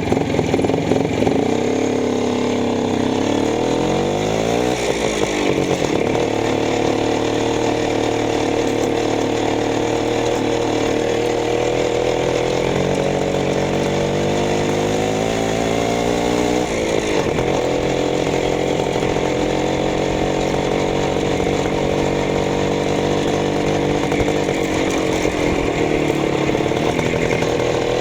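Minsk motorcycle's single-cylinder two-stroke engine running, its speed rising and falling several times: a climb about four seconds in, a step up about twelve seconds in that builds and then drops sharply near seventeen seconds, and a brief dip near the end.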